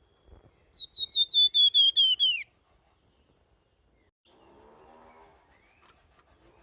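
A flamboyan songbird singing a rapid run of about a dozen high, clear whistled notes. The notes step slightly lower as they go, and the last one slides down. The run lasts about a second and a half.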